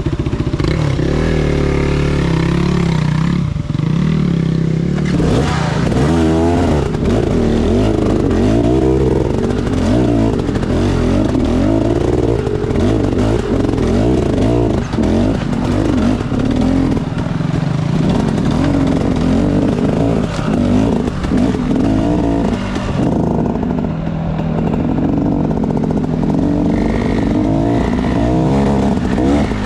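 Enduro dirt bike engine being ridden off-road, revving up and down continuously as the throttle is worked, rising and falling in pitch throughout.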